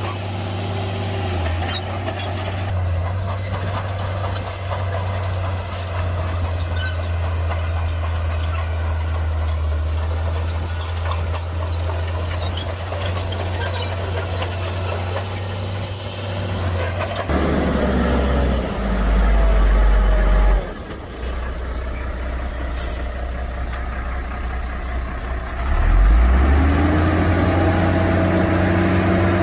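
Heavy diesel engine of earthmoving machinery running steadily, then working harder and louder a little past halfway. It eases off briefly, then revs up again near the end with a rising note. A short hiss comes about two-thirds in.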